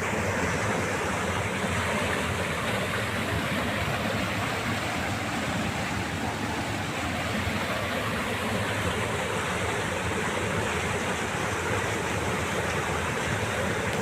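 River water rushing over rocks in small falls: a steady, even rush.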